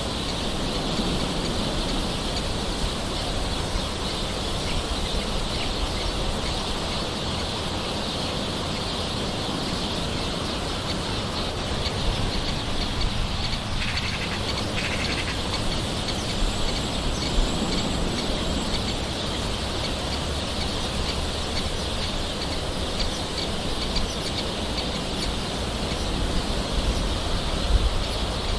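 Steady gentle rain with birds calling in the background, including a short call about halfway through.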